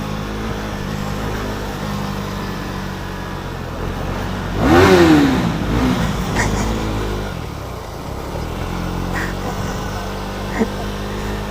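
KTM Duke 390 single-cylinder motorcycle engine idling, then revved hard about four and a half seconds in: the pitch shoots up and falls back within about a second, and a smaller rev follows soon after.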